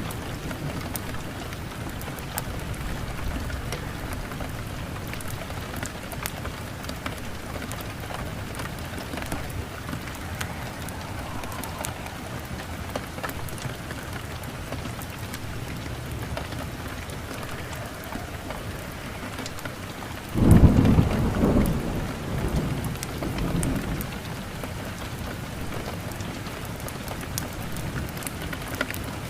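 Steady rain falling. About two-thirds of the way through, a sudden clap of thunder rolls and rumbles for a few seconds, then rumbles again more softly.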